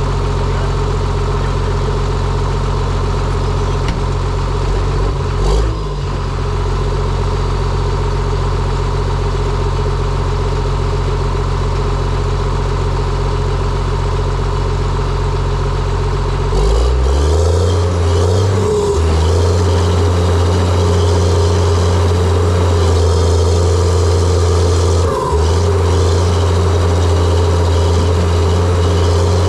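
John Deere 700J-II crawler dozer's diesel engine running steadily under work. About halfway through it picks up to a higher, steady speed, with a brief dip in engine speed near the start and another near the end.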